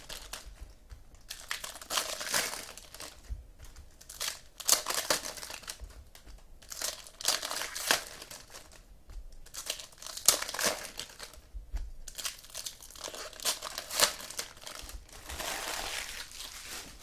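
Foil wrappers of football card packs being torn open and crinkled by hand, in irregular rustling bursts about once or twice a second.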